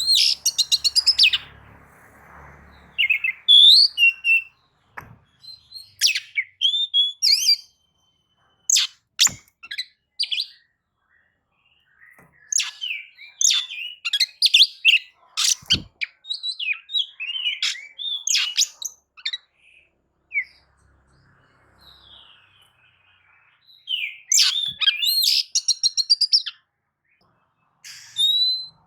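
Oriental magpie-robin (kacer) singing in full voice: quick, varied whistles and chirps in bursts separated by short pauses, with a rapid trill of repeated notes near the end.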